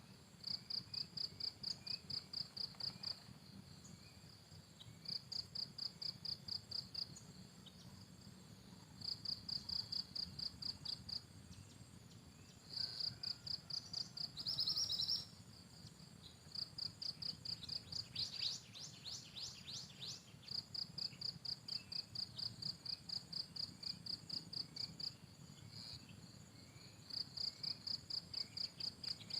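Insect calling in repeated trains of rapid, high-pitched pulses, about five a second, each train lasting about two seconds with short pauses between. A bird gives a quick run of falling chirps about two-thirds of the way in.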